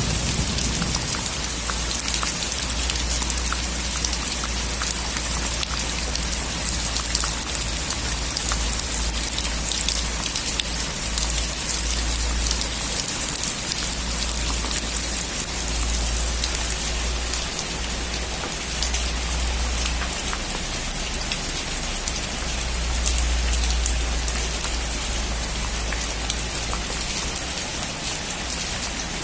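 Heavy rain drumming steadily on a metal roof, with a dense patter of individual drop ticks. A low thunder rumble fades out in the first second.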